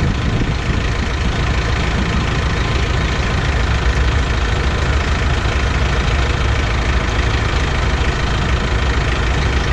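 Tractor engine running steadily under load, driving a post-hole auger that is boring into the ground.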